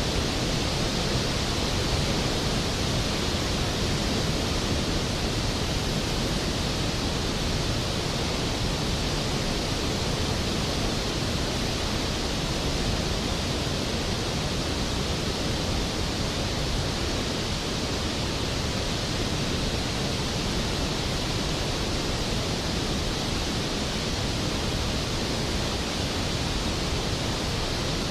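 Skógafoss, a large waterfall, crashing down in a steady, unbroken rush of water noise.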